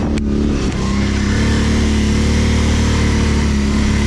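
ATV engine running steadily at mid revs while riding through deep snow, its pitch holding fairly even.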